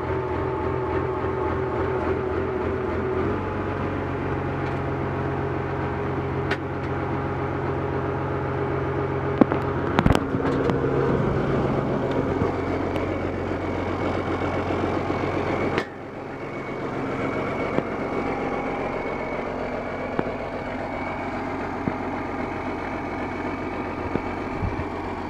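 Oliver 1855 tractor's Waukesha engine running steadily, its note shifting about three seconds in. A couple of sharp clicks come around ten seconds in. Near sixteen seconds the sound drops suddenly, then builds back up over several seconds.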